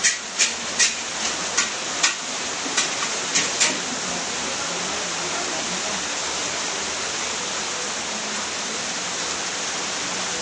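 Steady heavy rainfall, an even hiss of rain. In the first four seconds about a dozen sharp taps, like close drips striking a hard surface, stand out above it.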